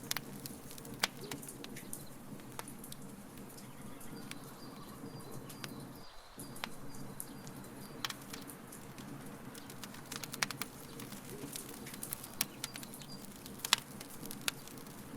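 Wood fire crackling in a fire pit: irregular sharp pops and snaps over a steady low rush.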